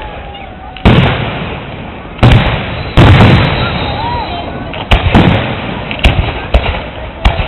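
Aerial fireworks shells bursting overhead: about eight sharp booms, irregularly spaced, each followed by a rumbling echo that dies away.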